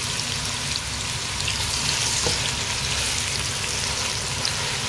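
Julienned carrots sizzling steadily as they fry in hot oil and ghee, with scattered small pops. A spatula stirs them through the fat near the end.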